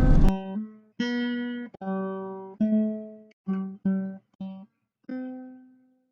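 Acoustic guitar music: a slow run of about eight single plucked notes, each ringing out and fading. A loud steady noise cuts off suddenly just before the first note.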